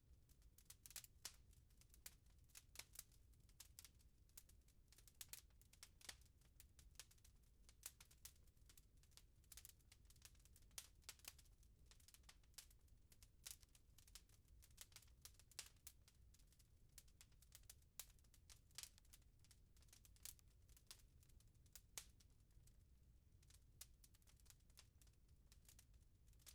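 Wood fire crackling softly: irregular small pops and snaps, several a second, over a faint low rumble.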